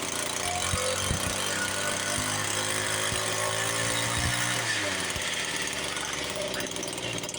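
Small two-stroke weed-eater / chainsaw engine running, its pitch shifting about four and a half seconds in.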